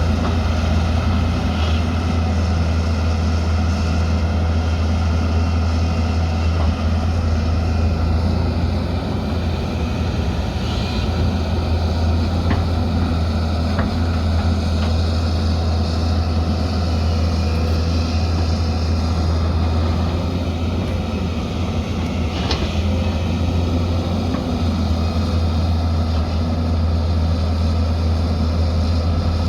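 Diesel engine of a heavy earthmoving machine running steadily at constant speed, a low steady drone with a few faint clicks.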